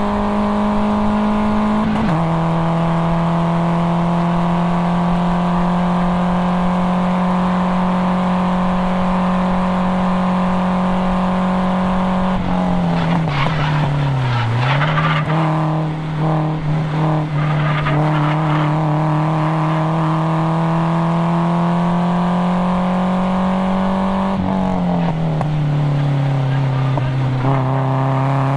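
Nissan 240SX's KA24DE 2.4-litre four-cylinder engine pulling hard at high revs, the pitch climbing through the gears with sudden drops at upshifts about 2 seconds in and again near the end. In the middle the revs fall away sharply while the tyres squeal through a corner, then the engine climbs again.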